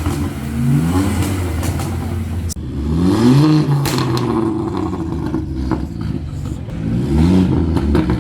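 A car engine being revved in three blips, each rising sharply in pitch and then dropping back to idle, about a second in, around three seconds in and about seven seconds in.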